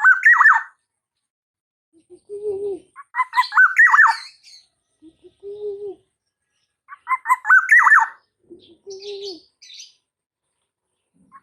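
Young black-naped oriole calling, practising its fluty 'ploong' call. It repeats a phrase of quick short notes ending in a downward whistle about every four seconds. Between phrases there are shorter, lower notes.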